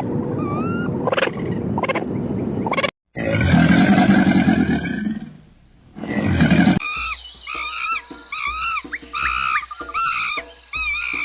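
Several different animal calls, one after another: repeated short calls in the first few seconds, then a loud, deep roar lasting about three seconds, then a run of short, high chirping calls.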